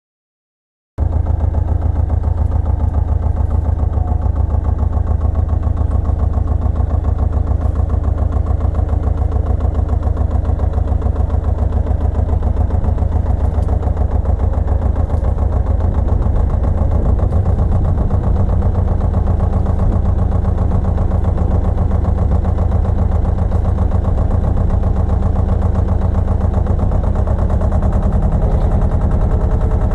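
Pasquali 980 EX compact tractor's engine running steadily with a fast, even chug. It cuts in abruptly about a second in.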